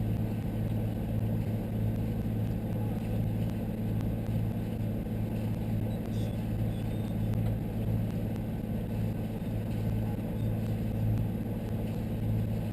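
A boat's engine running steadily at constant speed, a low even drone.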